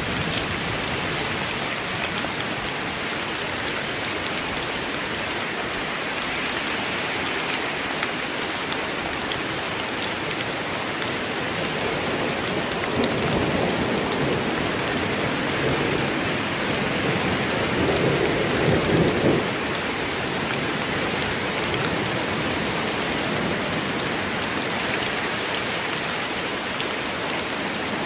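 Steady heavy rain falling in a forest, with a low rumble of thunder swelling in the middle and dying away about two-thirds through.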